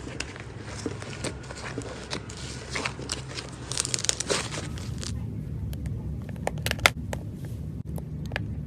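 Slime being squeezed and worked by hand, giving a run of small sticky clicks and crackling pops over a low steady hum. About five seconds in the sound turns duller, with fewer, sharper pops.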